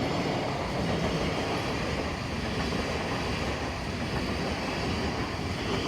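LNER Hitachi Class 800 Azuma train, unit 800 203, running past on the slow line with a steady rumble of wheels and running gear.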